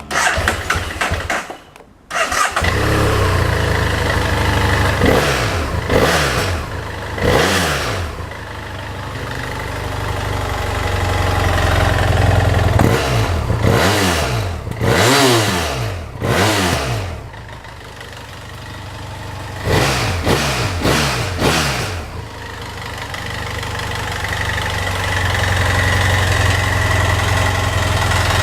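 BMW F800S 798 cc parallel-twin engine with its stock exhaust, cranked over by the starter for about two seconds, catching, then blipped several times with the throttle, each rev rising and falling back to a steady idle. The engine idles steadily near the end.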